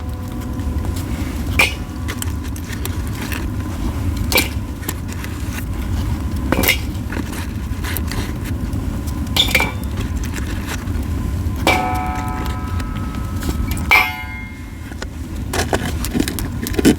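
Yew-wood campfire crackling in a steel fire pit: a steady low rumble of burning with sharp, irregular pops every second or two. A few pops are followed by a brief ringing tone.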